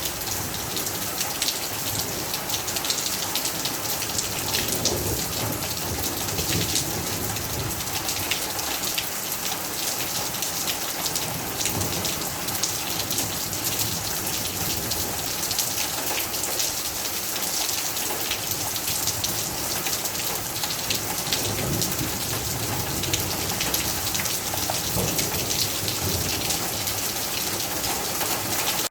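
Steady rain falling: a dense, even hiss of countless drops striking surfaces, with low rumbles now and then.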